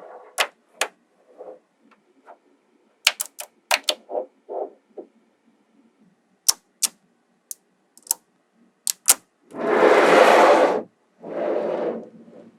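Small magnetic balls clicking as they snap together one by one, some in quick pairs and triplets. Near the end come two longer noisy stretches of about a second each, the louder first.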